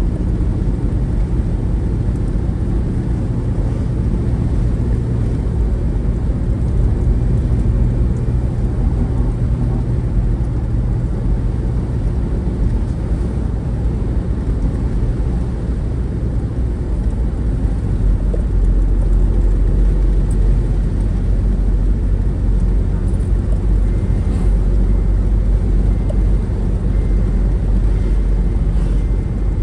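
Steady low rumble of a moving road vehicle: engine and road noise, growing a little louder about two-thirds of the way through.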